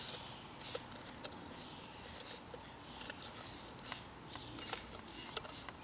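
Scattered light clicks and taps of small metal parts being handled and fitted together: the exhaust spark arrestor screen and cover of a string trimmer going back on.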